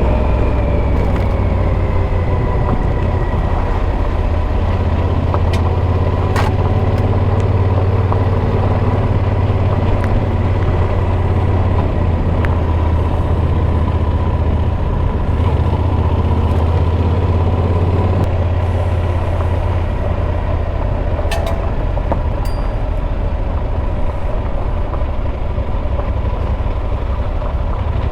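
Motorcycle engine running steadily with a deep, even drone and a steady pitch, easing down slightly at the start. A couple of short sharp clicks are heard about six seconds in and again about twenty-one seconds in.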